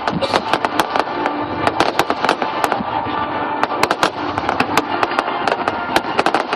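Fireworks bursting and crackling in rapid, dense succession, with music playing alongside.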